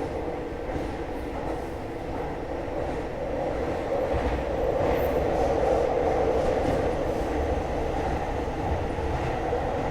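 Keio 5000 series electric train running between stations, heard from inside the car: a steady rumble of wheels and running gear, growing louder about four seconds in.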